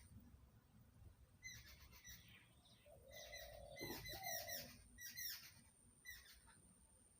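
Small birds chirping faintly, in clusters of quick, sharp calls every second or so.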